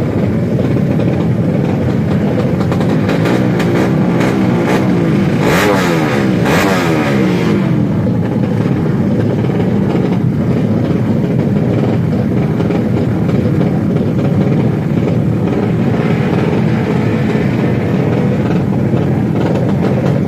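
Tuned Yamaha Jupiter MX drag-race motorcycles running loud, engines revving with pitch sweeping up and down, loudest about four to seven seconds in.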